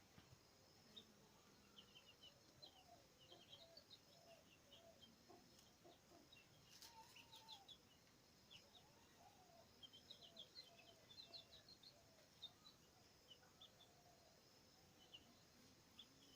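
Faint calls of several birds: many quick high chirps scattered throughout, with runs of lower short repeated notes.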